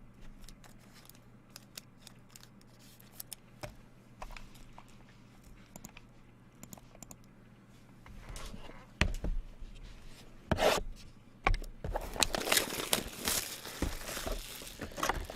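Trading cards and packaging being handled, with soft clicks at first. Then, from about eight seconds in, plastic wrapper is torn and crinkled, becoming a dense crackle in the last few seconds as a sealed box and its packs are opened.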